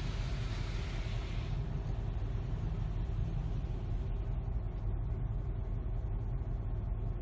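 Touch-free car wash heard from inside the car: a steady low rumble, with a hiss of spray on the car that stops about one and a half seconds in.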